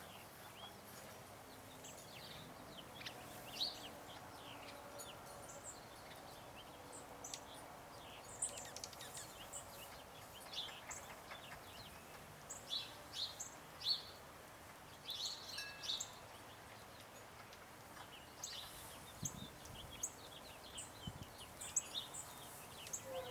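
Small songbirds chirping and calling: many short, high chirps scattered throughout, more of them in the second half.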